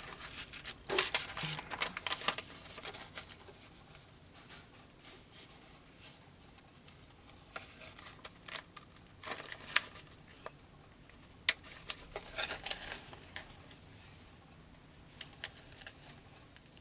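Paper being cut and handled: scattered short snips and rustles of paper with a few sharp clicks.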